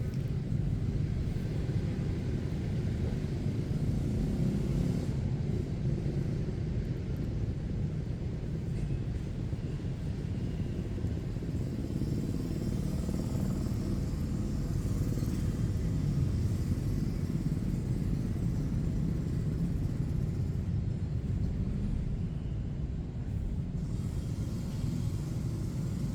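Steady low rumble of street traffic, with motorbikes in the mix.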